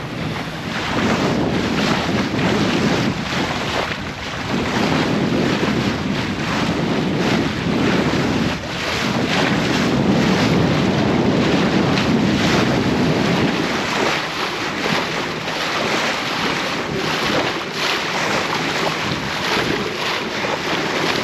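Wind buffeting the microphone and water rushing past the hull aboard a sailing yacht under way, a steady, fluctuating rush that swells and eases every few seconds.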